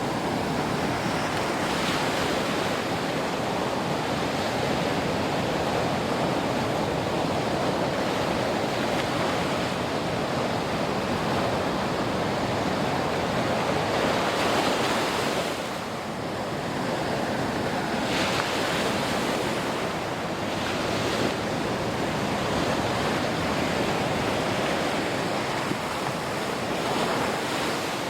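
Ocean surf: waves washing in as a continuous rush that swells and eases, with a brief lull about sixteen seconds in.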